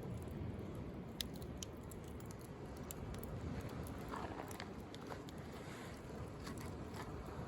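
Wood bonfire crackling, with scattered sharp pops at irregular intervals, the clearest just after a second in, over the steady low wash of sea waves.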